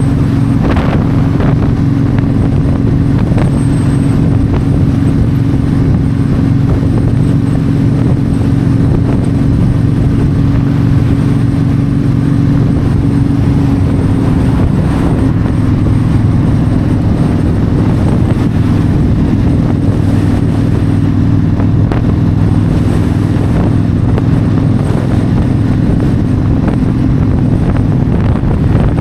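Yamaha V-Star 1300's V-twin engine running steadily at highway cruising speed, with wind noise over the microphone. The engine note drops slightly about halfway through.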